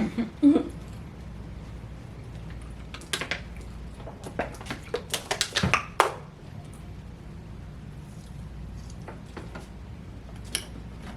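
A quick run of light clicks and taps, mostly between about three and six seconds in, from food containers and packaging being handled during a meal, over a steady low room hum.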